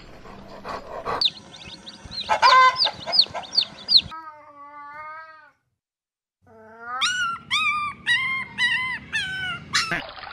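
A puppy whimpering in a run of short, high, falling cries, then a wavering whine. After a second of silence, kittens mew repeatedly, about seven meows in quick succession.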